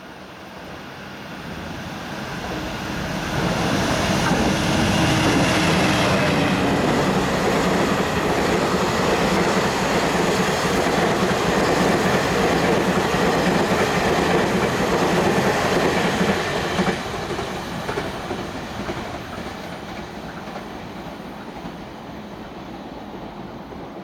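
Taiwan Railway R200-series Stadler diesel-electric locomotive passing at speed, hauling an EMU3000 electric trainset. The rumble of the locomotive and wheels on the rails builds over the first four seconds, stays loud for about twelve seconds while the coaches go by, then fades as the train draws away.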